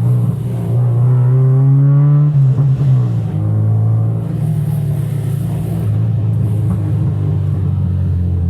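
Car engine with a steady low rumble; about a second in its note climbs for a couple of seconds as it revs up, then settles back to the drone.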